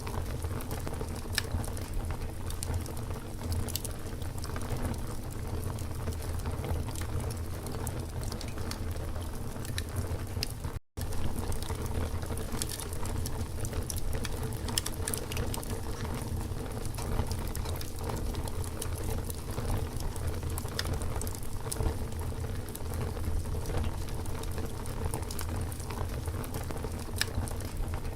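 Wood campfire burning with a steady low rush and frequent small crackles and pops. The sound cuts out for a split second about eleven seconds in.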